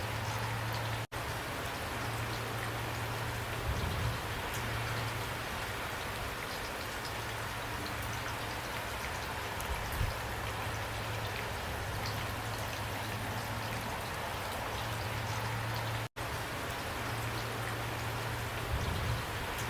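Steady rain falling, an even hiss of drops, over a low steady hum. The sound cuts out for an instant twice, once about a second in and again near the end.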